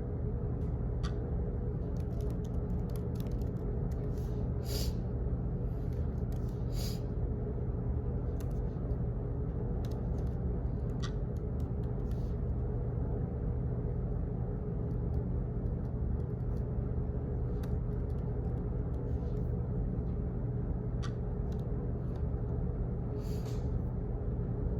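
Office room ambience: a steady low hum like ventilation or machinery, with short clicks and taps scattered at irregular intervals.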